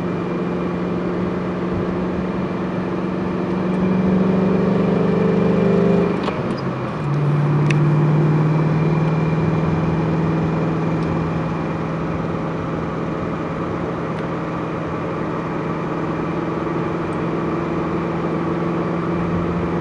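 Twin-turbocharged 5.4-litre V8 of a Ford GT running steadily under way. The note climbs a little, drops briefly about six seconds in, like a gear change, then settles back to a steady drone that slowly eases.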